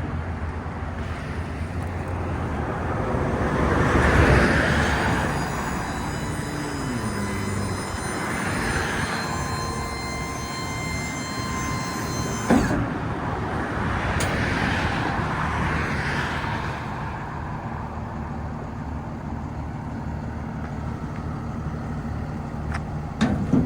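Box truck engine running, its sound swelling and easing a few times. A high steady whine is heard for several seconds and stops with a sharp click about halfway through.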